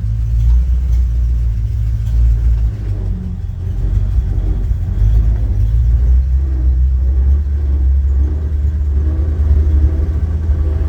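1952 Ford F-2 pickup's original flathead V8 running with a steady low rumble, quiet for its age.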